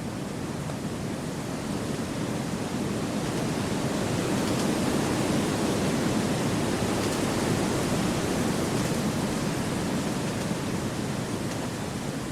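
Wind blowing through forest trees, a steady rushing that swells in the middle and eases off toward the end.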